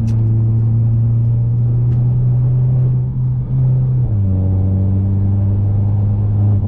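Mercedes-Benz C250's turbocharged four-cylinder engine droning steadily while driving. Its pitch steps down abruptly about four seconds in and holds there. There is a short click right at the start.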